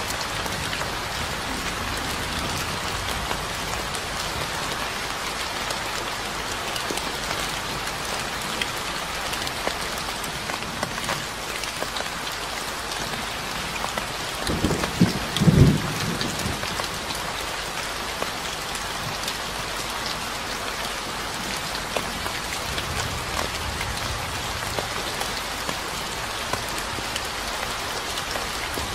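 Steady rain falling, a dense even patter. About halfway through, a short, loud low rumble of thunder.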